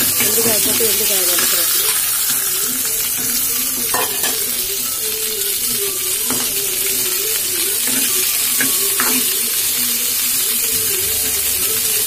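Chopped okra sizzling and frying in hot oil in an aluminium pot as a steel spoon stirs it, with a few sharp clicks of the spoon against the pot.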